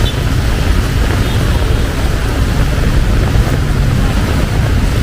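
Heavy rain falling in a steady, loud hiss, with a low rumble of wind on the microphone underneath.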